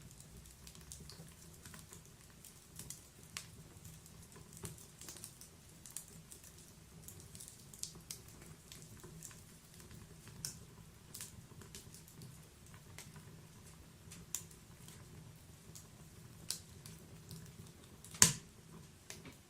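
Wood fire in a log-burning fireplace crackling: irregular small pops and snaps over a soft steady hiss of burning, with one much louder pop near the end.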